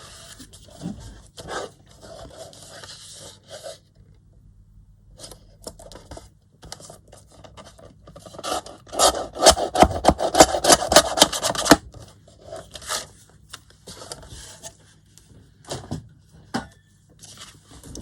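Paper pages being trimmed at their edges: a run of short scraping and cutting strokes, scattered at first and then fast and loudest for a few seconds in the middle.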